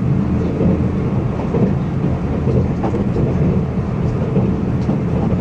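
Steady running rumble of a train heard from inside the passenger car as it rolls along the track, with a few faint clicks.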